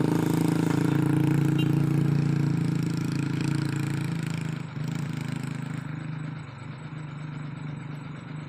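Hino 500 Euro 4 truck's diesel engine running hard at steady revs. About halfway through it drops back to a quieter, lighter-load sound.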